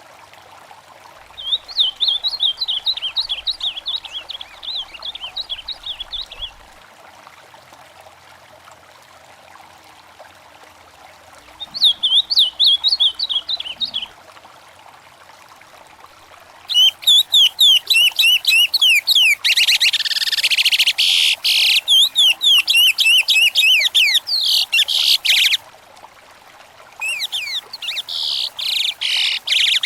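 Songbirds singing in bursts of fast, rapidly repeated chirping notes, in four phrases, with two or more birds overlapping in the long phrase in the middle. A faint steady stream runs underneath.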